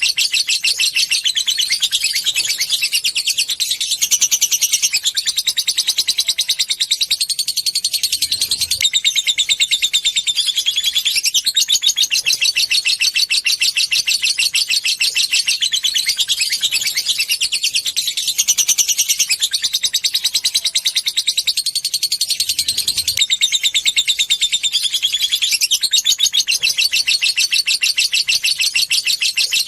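Lovebird chattering in a long, unbroken high-pitched trill of very fast repeated notes (the 'ngekek' song), its pitch shifting every few seconds. It is a lure recording, played to stir other lovebirds into trilling.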